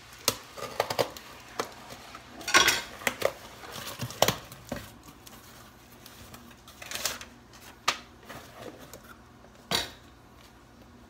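Hard objects clattering and clinking as they are handled, like dishes or utensils: a string of irregular knocks, loudest in a cluster about two and a half seconds in, thinning out, with one last sharp knock near the end.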